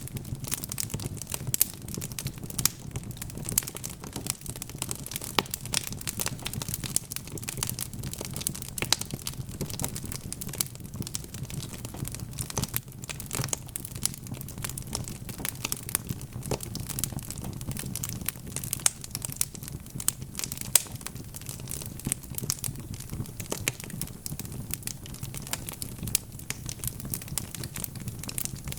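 Wood fire crackling steadily: a dense run of sharp pops and snaps over a low, even rumble of the flames.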